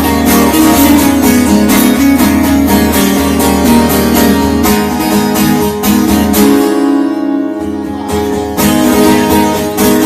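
Instrumental guitar music: acoustic guitar strummed in a steady rhythm over a low bass part. About six and a half seconds in, the strumming and bass drop away for a couple of seconds of held notes, then the strumming comes back.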